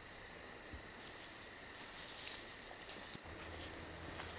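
Crickets chirping at night: a faint, steady high trill with a fast, even pulse. A faint low hum comes in about three seconds in.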